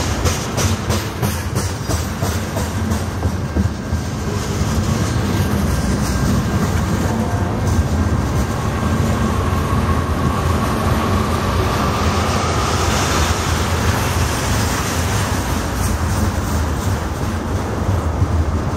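A freight train's tank cars rolling past close by: a steady, loud rumble of steel wheels on rail, with clicking over rail joints that is most distinct in the first few seconds. A faint thin wheel squeal rises about halfway through.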